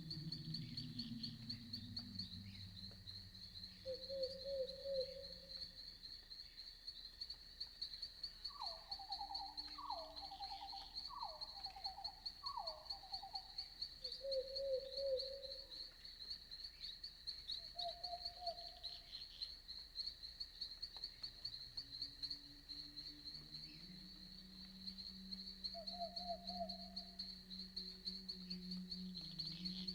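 Crickets trilling steadily in a high pulsing chorus at night, with a few short lower trilled calls of other night animals, including a run of four calls about a second apart near the middle. A low hum fades out early on and returns in the last few seconds.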